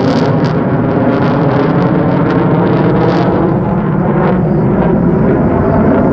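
Blue Angels F/A-18 Super Hornet jet engines running loud and steady.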